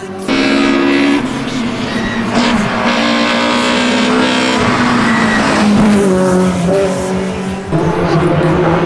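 Rally car engines at full throttle on a stage, revs rising and falling through gear changes, with some tyre squeal. The sound changes abruptly twice, jumping to another pass.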